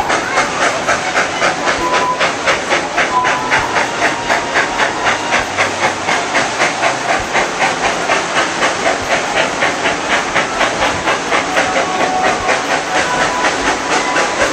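Narrow-gauge steam locomotive working along, its exhaust chuffing in a steady rhythm of about four beats a second over a constant hiss of steam.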